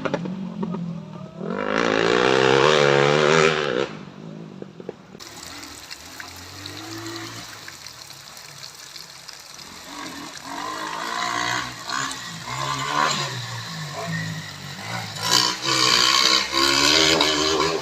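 Dirt-bike engines revving, the pitch swinging up and down, loudest about two to four seconds in, then fading and coming back louder in the last third.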